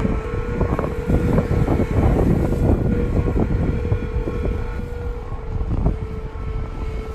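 Golden Gate Bridge singing in high wind: one steady hum-like note with fainter higher overtones, made by wind blowing across the bridge's retrofitted sidewalk railing slats. It is heard over heavy wind rumble on the microphone, and the note fades near the end.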